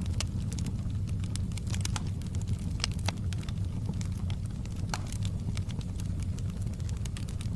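Wood fire crackling in a fireplace: frequent irregular sharp snaps and pops over a steady low rumble of the burning fire.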